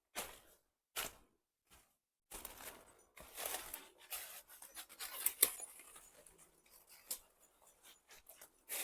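A dog panting and snuffling close by, with rustling and crunching in leaf litter. Short separate puffs come first, then a denser stretch of rustling about two seconds in.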